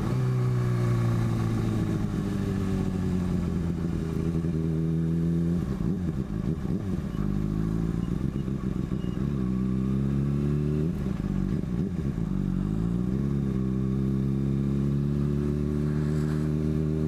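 Motorcycle with an aftermarket exhaust being ridden. The engine's pitch sinks slowly for the first five seconds, then climbs under acceleration, drops sharply at a gear change about eleven seconds in, climbs again and settles to a steady cruise.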